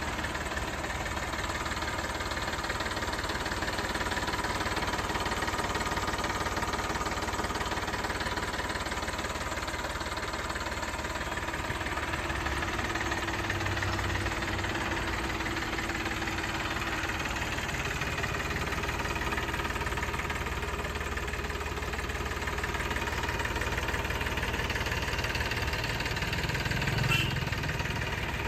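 Eicher 480 four-wheel-drive tractor's diesel engine idling steadily, with a knocking beat. There is a brief click near the end.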